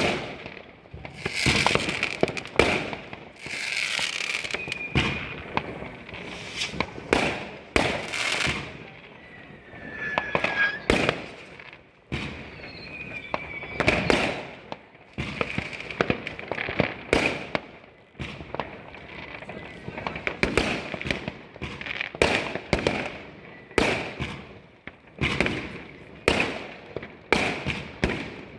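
New Year's Eve fireworks: rockets and firecrackers going off in many irregular bangs, some near and loud, with crackling and a few short whistles.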